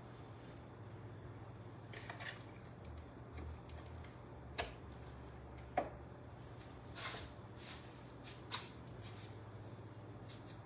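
Quiet kitchen food-prep handling: a few soft rustles and three light sharp knocks over a low steady electrical hum.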